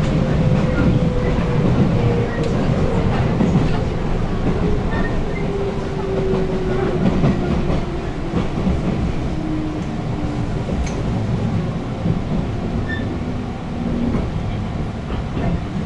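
Interior running noise of a JR West 221 series electric train: wheels rumbling on the rails with some clicks, and a whine from the drive falling steadily in pitch as the train slows toward a station. It is loudest at the start, as another train runs close alongside.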